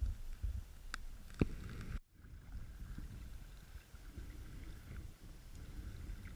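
Kayak paddling, with water noise and wind on the microphone. Two sharp knocks come about a second in, the second the louder, and the sound drops out briefly about two seconds in.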